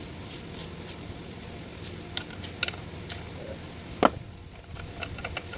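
Scattered light clicks and taps of hand tools on the metal of a small Mercury outboard being taken apart, with one sharper click about four seconds in.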